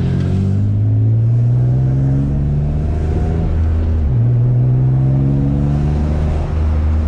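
Turbocharged VQ35 V6 of a single-turbo Infiniti G35 accelerating hard, its pitch climbing, then dropping abruptly at an upshift about four seconds in, climbing again, and dropping at a second shift near the end. The blow-off valve is unplugged, so there is no valve release at the shifts. Heard from inside the car.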